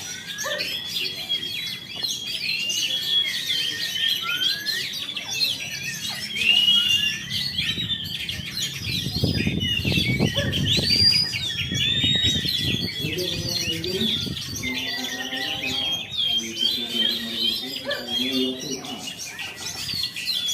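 Oriental magpie-robin (kacer) singing without a break, a fast varied stream of whistles, chirps and slurred notes, from a bird that has just finished its moult. Voices talk in the background during the latter part.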